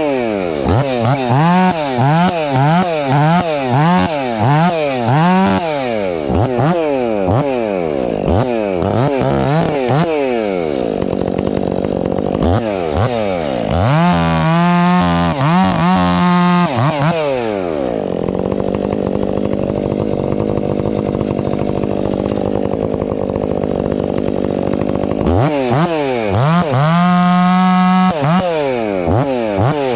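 Stihl MS 500i two-stroke, fuel-injected chainsaw running hard, its engine speed rising and falling over and over in quick swings, with steadier, lower-pitched stretches in the middle of the clip.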